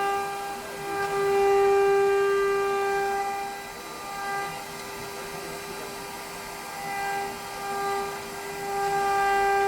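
CNC machining centre's spindle whining at a steady high pitch as it cuts composite panel, swelling louder and easing off as the cut goes on.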